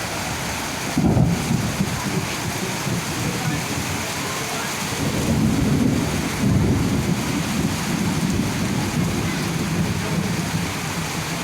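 Heavy rain falling steadily, with thunder rumbling low underneath; the rumble swells sharply about a second in and again near the middle.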